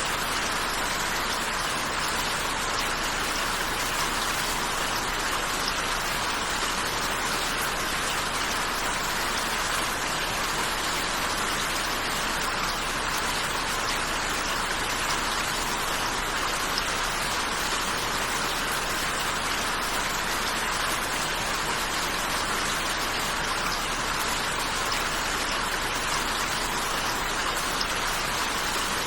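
Steady rain falling, an even unbroken hiss of drops on a surface.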